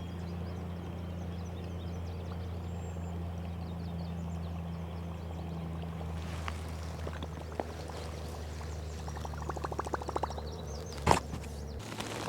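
Fishing reel being cranked to retrieve a topwater lure, a steady low hum that stops shortly before the end. A quick run of rapid clicks comes near the end, and then a single sharp knock, the loudest sound.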